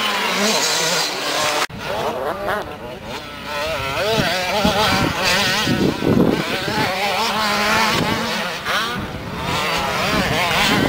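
Several motocross motorcycle engines revving, their pitch rising and falling as the bikes race on the track. The sound breaks off sharply for an instant just under two seconds in, then resumes.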